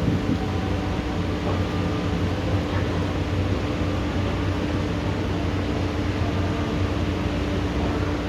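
Steady rain falling during a thunderstorm, an even hiss, with a low steady machine hum underneath.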